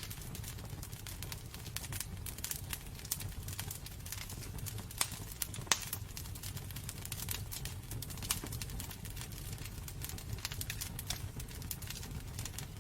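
Wood fire burning in a fireplace: irregular sharp crackles and pops, a few of them louder, over a low steady rumble.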